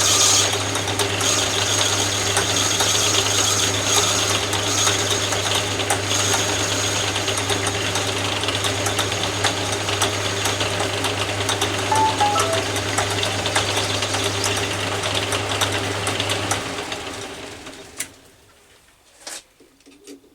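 Atlas 10 metal lathe running with a steady hum and fine ticking while it takes a light finishing cut on a brass spigot. It is switched off about 16 seconds in and winds down, followed by two sharp clicks.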